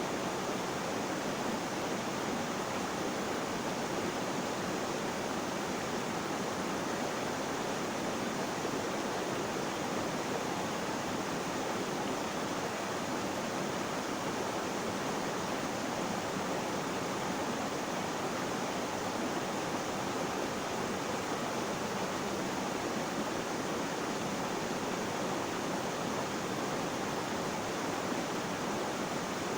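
Water flowing in a steady, even rush with no breaks or changes.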